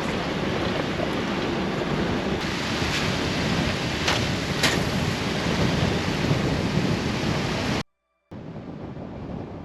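Loud rushing, splashing water around a Jeep driving through a flooded creek crossing, with a few sharper splashes in the middle. It cuts off abruptly near the end, and a quieter vehicle running follows.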